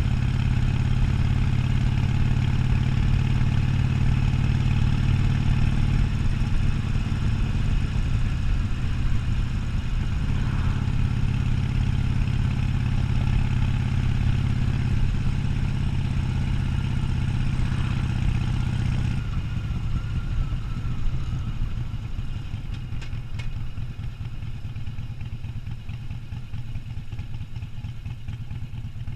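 Harley-Davidson Sportster 1200's air-cooled V-twin engine running steadily under way; about two-thirds through the steady note drops away to a lower, uneven rumble that slowly fades.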